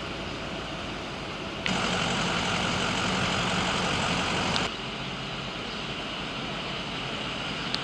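A vehicle engine running steadily under a noisy background, with a louder stretch in the middle that starts and stops abruptly.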